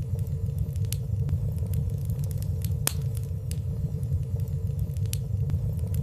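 Fireplace fire burning steadily: a low, even rumble of flames with scattered light crackles, one a little sharper about three seconds in.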